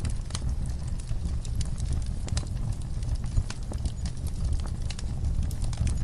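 Wood fire crackling in a fireplace: irregular sharp snaps and ticks over a steady low rumble of the flames.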